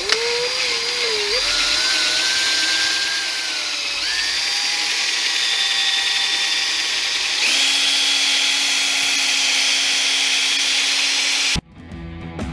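Electric drill spinning a foam buffing pad to polish a plastic headlight lens, its motor whine shifting in pitch several times as the speed changes. Near the end the drill stops and rock guitar music starts.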